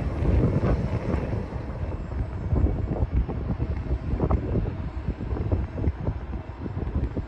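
Wind buffeting the phone's microphone in uneven gusts, over the low rumble of a jet airliner that is fuller in the first couple of seconds.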